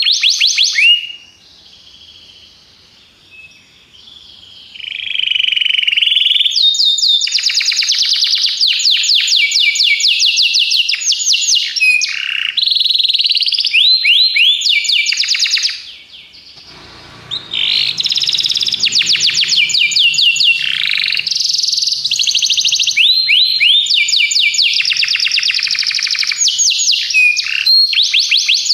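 Domestic canary singing long fast trills of quickly repeated rising and falling notes. The song breaks off twice: for about three seconds starting a second in, and briefly around sixteen seconds in.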